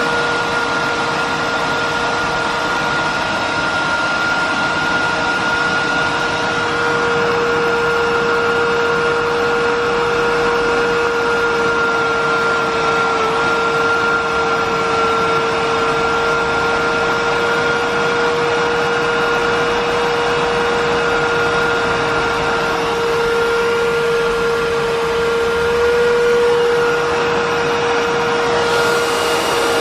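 Miele S8310 canister vacuum's 2200-watt motor running steadily, a constant whine with two held tones over the rush of air, as its airflow is measured with the canister alone.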